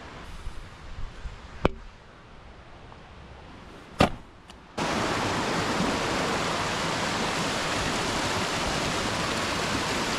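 Rushing water of a mountain creek's small waterfall, a steady loud hiss that comes in suddenly about five seconds in. Before it, two sharp knocks against a quieter background.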